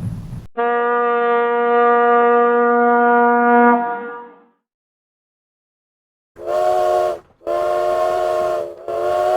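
A steady single-pitched horn blast for about three and a half seconds. After a short silence, a steam locomotive's chime whistle sounds several notes at once in three blasts with brief breaks, the last still going at the end.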